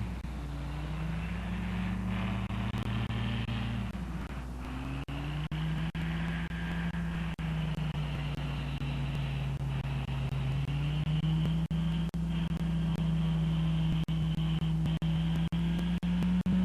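Rotax 447 two-stroke twin engine of an ultralight flying wing running on the ground, its speed dipping about four seconds in, sagging a little in the middle and rising again near the end. The recording drops out briefly here and there.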